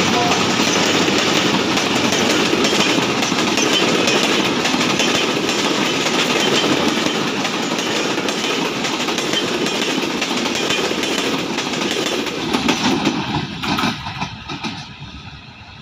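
Passenger train coaches rolling past: a steady rumble and rattle of wheels on the rails, with a few sharp clacks near the end as the last coach goes by, then fading as the train moves away.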